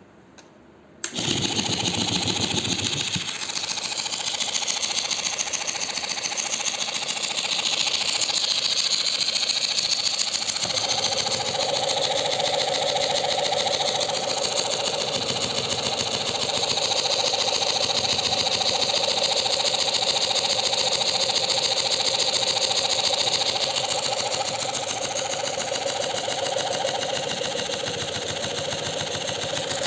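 Small electric motor switched on about a second in, then running steadily with a fast, even whirr; its tone shifts about ten seconds in.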